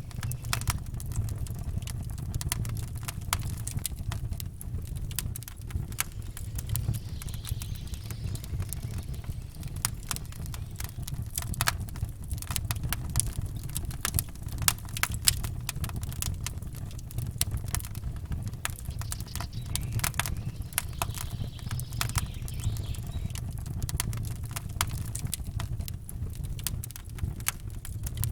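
Campfire crackling, with many small irregular pops over a steady low rumble.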